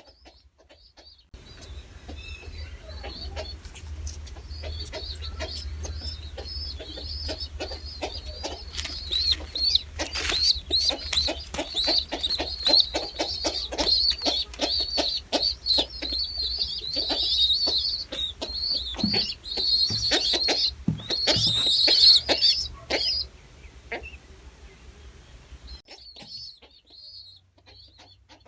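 Birds chirping and calling rapidly and continuously, many short high chirps overlapping. The calls grow louder toward about 22 s in, then stop about 23 s in, leaving only faint chirps.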